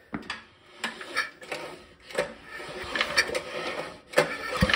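Irregular metal clicks, clinks and knocks of hand tools and parts being handled on a small engine, some with a short metallic ring.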